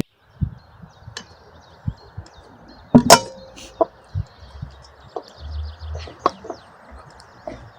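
Scattered light knocks and clinks of outdoor food preparation, with one sharp clatter about three seconds in that rings briefly, while small birds chirp.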